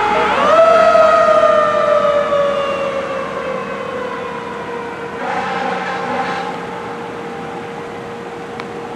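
A fire engine's Federal Q mechanical siren spins up sharply just after the start, then winds down in a long, slowly falling wail as it fades. A brief, harsher horn-like blast sounds about five seconds in, over a steady tone underneath.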